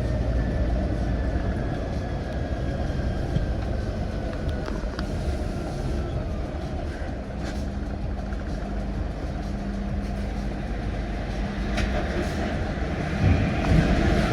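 Steady low rumble of a vehicle in motion, with a faint high tone sliding slowly down in pitch over the first several seconds. A few louder knocks come near the end.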